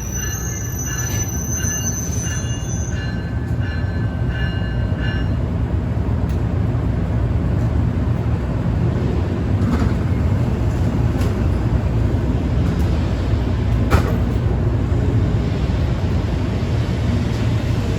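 A train passing on the rail line, a steady loud rumble of wheels on track that grows slightly louder. High thin squealing tones sound over it for the first few seconds and then stop, and a couple of sharp clicks come later.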